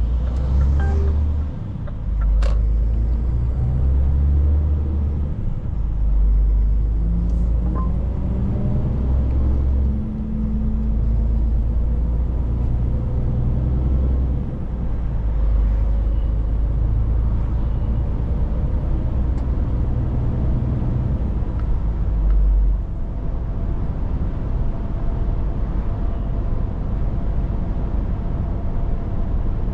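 Scania 500S truck's diesel engine pulling under load, its low drone dipping and stepping up every few seconds as if through gear changes, then settling into a steadier cruise near the end. A sharp click about two seconds in.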